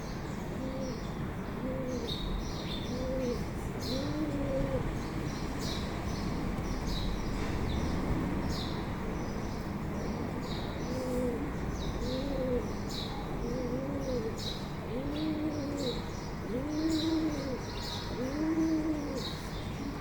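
A dove cooing in short arched notes, in two runs with a pause in the middle, the last few notes longer. Small birds chirp steadily throughout over a low background rumble.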